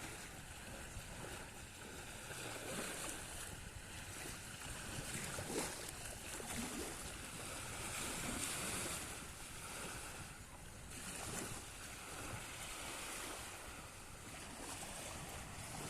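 Black Sea waves washing, with a noisy hiss that swells and ebbs every few seconds, and wind on the microphone.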